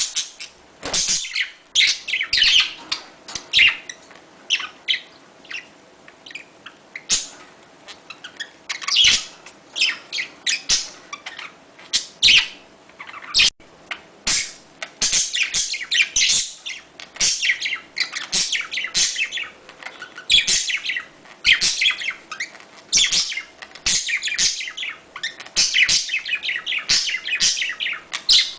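Budgerigars chirping and chattering in a dense, continuous run of short high chirps and warbles: budgie mating chatter of the kind played to stimulate breeding.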